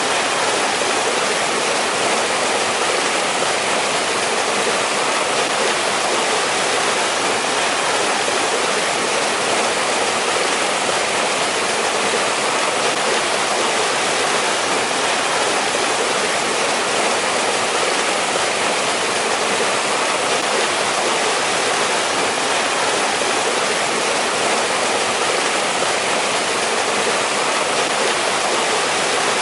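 Mountain stream rushing steadily over rocks, a continuous even hiss of flowing water with no pauses or changes.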